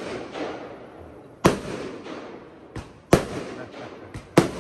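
Aerial firework shells bursting: three sharp bangs about 1.3 s apart with two weaker bangs between them, each trailing off in a crackling, echoing tail.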